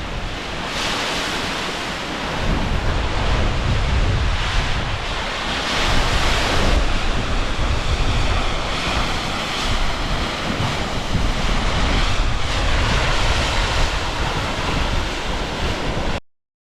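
Lake Michigan waves surging against the shoreline cliffs under strong gusting wind, which rumbles heavily on the microphone. The sound cuts off abruptly near the end.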